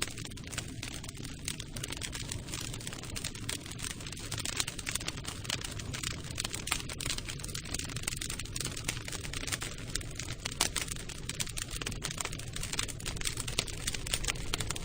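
Campfire crackling: a dense, irregular run of small pops and snaps over a low rumble of burning wood.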